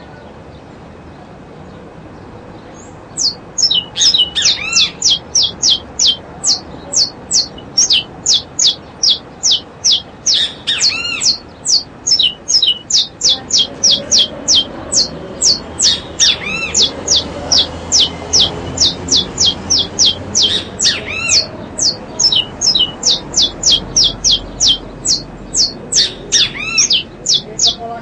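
Birds squawking: a rapid, steady run of shrill, high calls, about three a second, starting about three seconds in.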